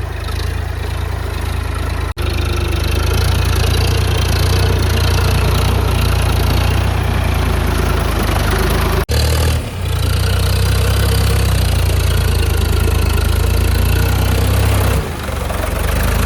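Sonalika DI-740 tractor's diesel engine running steadily under load as it drives circles through mud, with short breaks in the sound about 2 and 9 seconds in.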